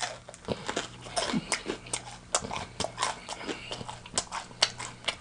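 Close-miked chewing: a run of wet mouth clicks and smacks, several a second, as food is chewed with the mouth partly open.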